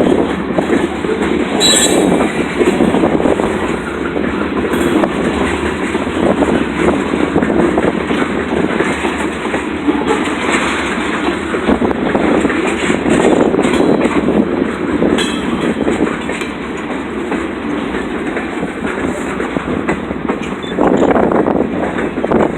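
Freight train cars rolling past close by: a steady, loud rumble with the wheels clacking over rail joints.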